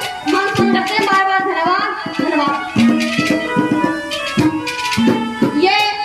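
Haryanvi ragni folk music: a melody line over steady hand-drum strokes, without singing.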